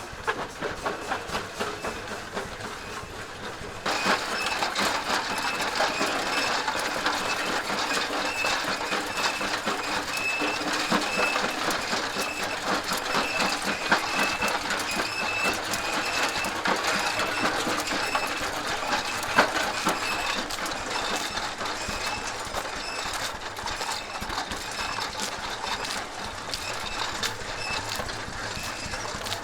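Machinery clattering rapidly and steadily, growing louder about four seconds in.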